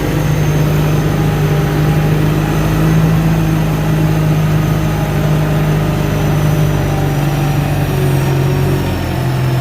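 Heavy diesel engine of a logging machine running steadily under load, a deep even hum that drops slightly in pitch near the end.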